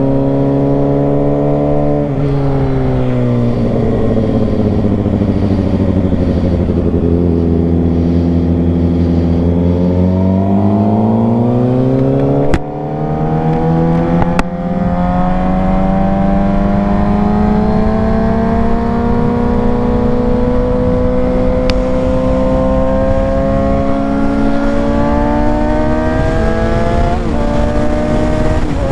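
Suzuki GSX-R600 inline-four engine under way. Its note drops about two seconds in and holds low, then climbs from about ten seconds on. Two brief dips in level come near the middle, and the note rises steadily through the rest.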